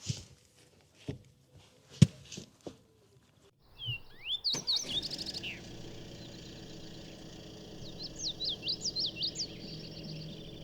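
Small songbirds chirping in quick rising and falling calls, starting about four seconds in and coming again in a run near the end. Before the birds begin there are a few sharp knocks.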